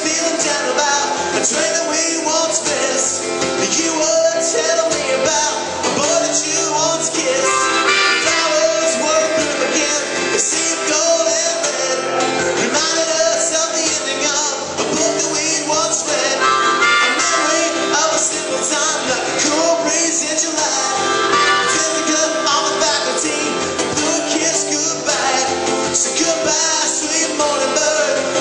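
Live performance of an original song: a band led by guitar playing, with singing.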